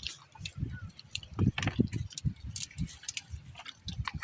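Close-up eating sounds of someone chewing lobster: an irregular run of soft low smacks and thumps, mixed with small wet clicks, thickest between one and two and a half seconds in.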